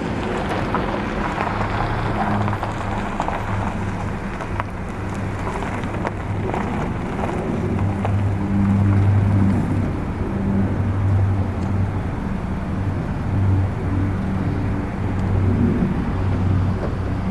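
Jet airliner engines running as a steady roar, with a low rumble that swells and fades irregularly.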